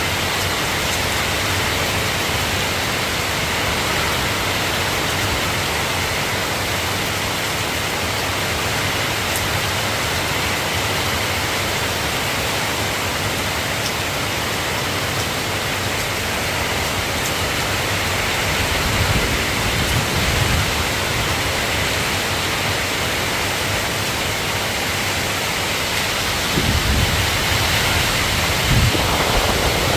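Steady rain falling in a continuous hiss, with low rumbles of distant thunder about two-thirds of the way in and again near the end.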